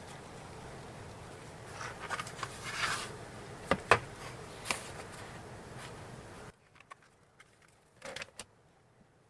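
Stationery being handled at a desk: a run of light clicks, taps and rustles over a steady background hiss, with two sharp clicks a little before the middle. The hiss cuts off abruptly, leaving a quieter stretch with a few faint clicks and a brief rustle.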